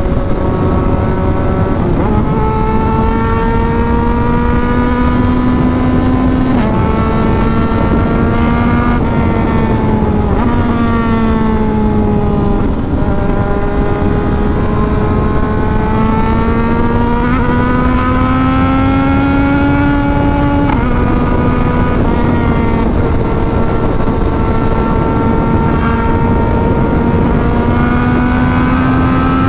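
Yamaha MT-09 three-cylinder engine through an aftermarket exhaust, running hard at high speed: its pitch climbs slowly and drops sharply several times, about two, seven, ten and twenty-one seconds in, as the throttle or gear changes. A steady rush of wind runs under it throughout.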